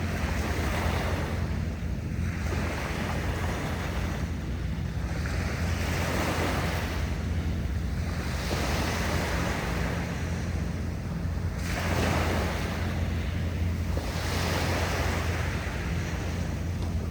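Sea waves washing in repeated surges every two to three seconds, over a steady low rumble of wind on the microphone.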